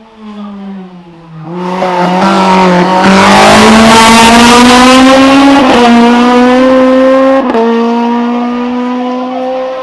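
Race car engine at full throttle, loud and close, its pitch climbing under acceleration with two upshifts about six and seven and a half seconds in, then fading slightly as the car pulls away.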